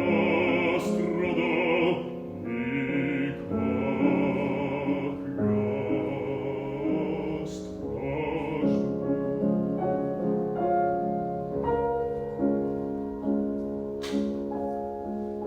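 Classical art song: a bass voice sings with wide vibrato over piano accompaniment, the voice ending about eight or nine seconds in while the piano plays on alone as a closing passage.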